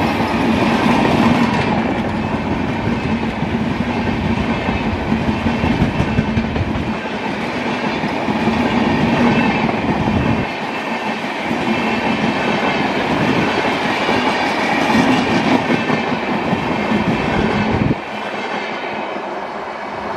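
Passenger coaches of an Indian express train rushing past at speed, wheels rumbling and clattering over the rails in a loud, continuous rush that drops off suddenly near the end.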